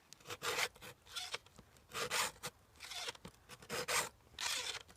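Stihl hand chain sharpener's files being pushed along a chainsaw chain, filing a cutter tooth and its depth gauge (raker) at once. The strokes are short and scraping, about seven of them at an uneven pace.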